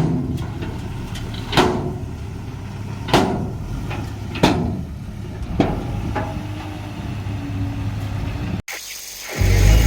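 Heavy earthmoving machine's engine running low and steady, with sharp metallic knocks about every second and a half. Near the end the sound cuts out briefly and a louder, deeper engine rumble comes in.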